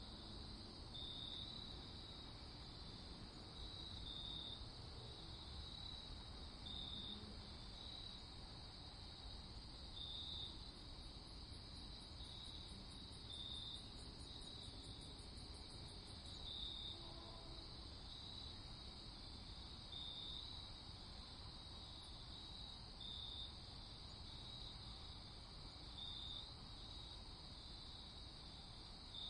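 Crickets chirping, faint: a steady high trill with brighter chirps every second or two. A faster, higher insect trill joins briefly about halfway through.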